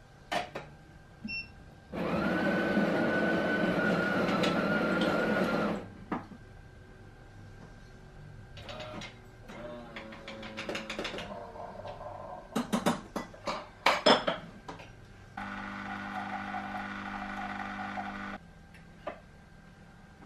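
Household sounds: a loud, steady machine noise for about four seconds, then clattering and a few sharp clicks, then a steadier humming appliance running for about three seconds before cutting off.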